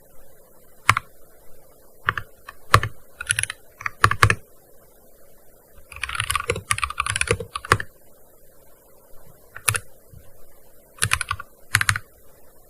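Typing on a gaming keyboard in uneven bursts: single keystrokes and short runs with pauses between, and a quick run of keys about six seconds in.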